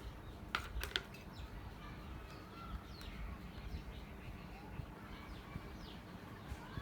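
Birds chirping faintly, with short scattered calls throughout, over a low steady background rumble; two sharp clicks about half a second to a second in.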